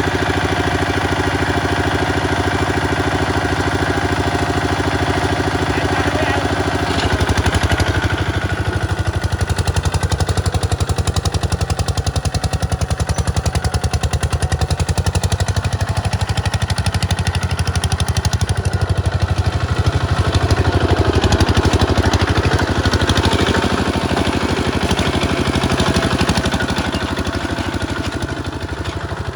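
Tractor diesel engine running steadily; about seven seconds in its even note gives way to a rougher, less even sound.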